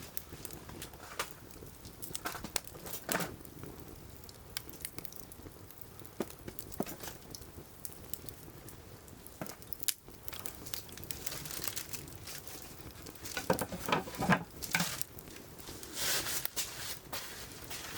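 Wood fire crackling in a wood grill, with scattered sharp pops and a denser run of crackling and rustling from about 13 to 17 seconds in.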